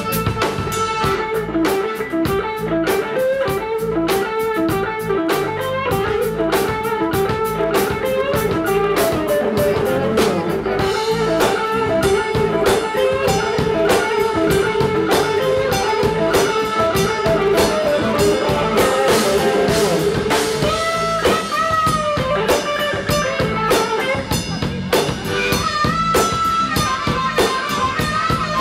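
Electric blues-rock band playing an instrumental passage, with electric guitar over a drum kit. The guitar plays quick repeated notes, then a long held note, then notes that slide up and down in pitch.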